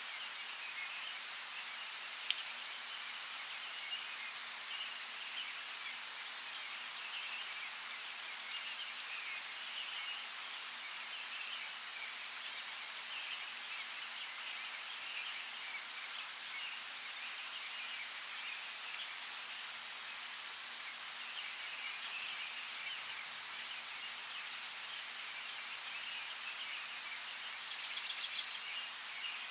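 Steady light rain hiss with occasional single drops ticking, and small birds chirping continuously in the background. Near the end comes a quick rattling run of about eight sharp high-pitched pulses, the loudest sound here.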